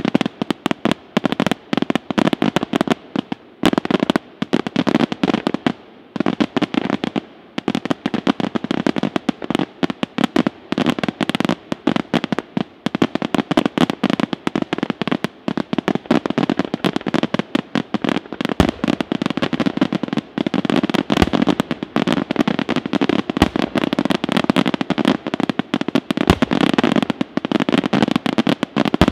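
Daytime fireworks display: a dense, rapid barrage of bangs and crackling reports from aerial shells bursting into clusters of smoke puffs, with a few deeper booms in the second half.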